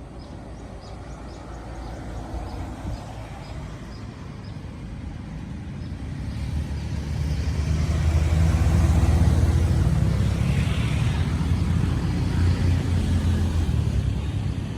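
A motor vehicle's engine and road rumble, growing louder over several seconds and staying loud through the second half as it comes close. Faint, evenly repeated chirps in the first few seconds.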